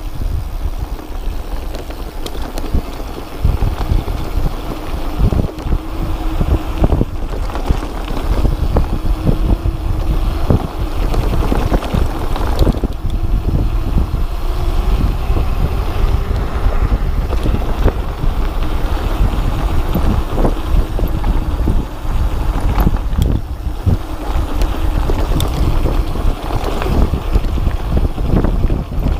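Wind buffeting the microphone with a heavy rumble, as a mountain bike on a fast downhill descent rattles and knocks over rough ground.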